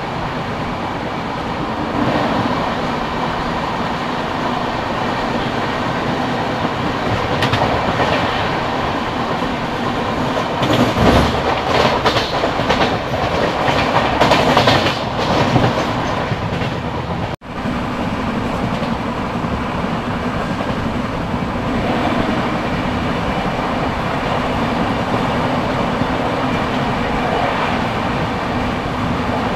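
Express passenger train running at speed, heard from an open coach door: a steady rumble of wheels on rail with clickety-clack. From about ten seconds in, an oncoming passenger train passes close on the adjacent track for several seconds, louder with rapid clatter. The sound cuts out for an instant just after it.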